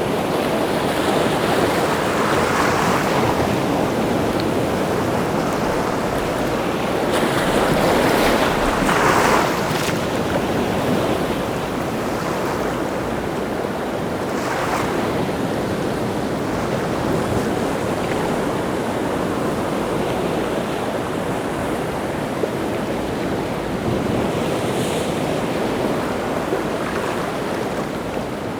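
Rough sea surf: waves breaking and washing onto the shore continuously, with a bigger wave breaking about eight to ten seconds in.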